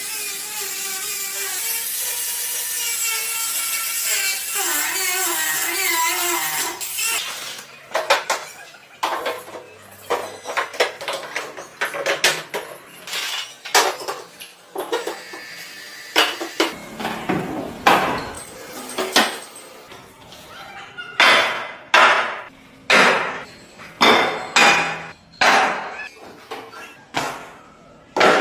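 Woodworking on a small wooden piece: a power tool runs with a wavering whine for about seven seconds, then come short knocks and strikes on the wood, ending in a regular series of about one strike a second.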